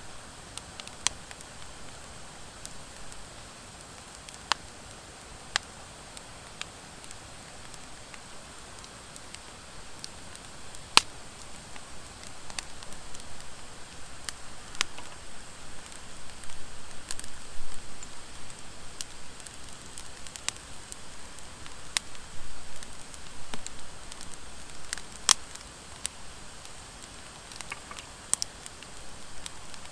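Wood fire of driftwood and dry hardwood logs burning, crackling with scattered sharp pops over a steady hiss. The pops come from the dry hardwood. The crackling grows busier and louder through the middle, then settles again near the end.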